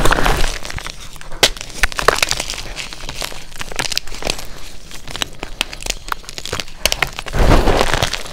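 Block of gym chalk being crushed, crumbling with scattered sharp cracks and a louder, denser crunch near the end.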